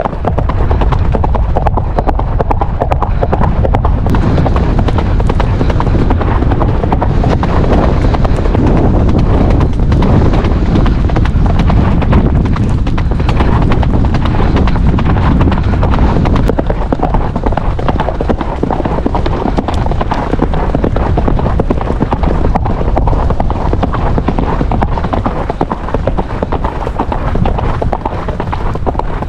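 Hoofbeats of horses cantering on a forest trail, a continuous run of hoof strikes over a steady low rumble.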